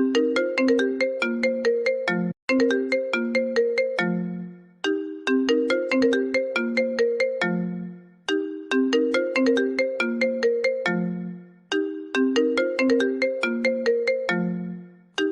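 iPhone ringtone playing on a loop: a bright melody of quick, struck notes, each phrase ending on a low note that fades before the tune starts again about every three and a half seconds.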